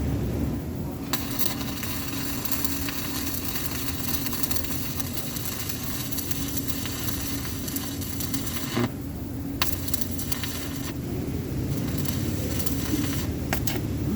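Electric arc welding crackling and sizzling as a bead is laid. The arc starts about a second in, stops about 9 seconds in, then is struck again briefly, over a steady low hum.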